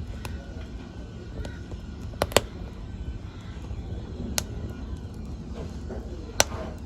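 Wood fire in a fireplace crackling: irregular sharp pops, the loudest a little past two seconds in and again near the end, over a low steady rumble of the flames.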